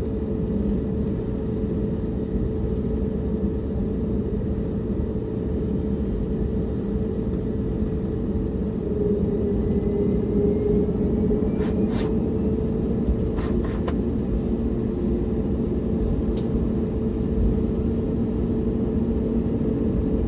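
Airbus A321neo jet engines heard from inside the passenger cabin: a steady rumble with a constant low hum. A few faint clicks come about halfway through.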